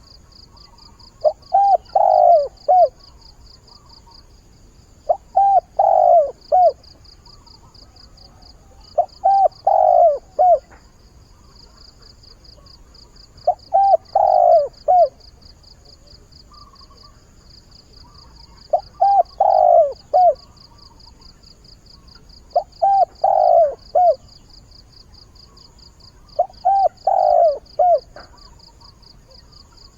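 Spotted dove (cu gáy) cooing: seven three-to-four-note coo phrases, about one every four seconds. It is a male decoy dove's mate-seeking call, used to lure wild doves. A faint, fast, high pulsing runs underneath.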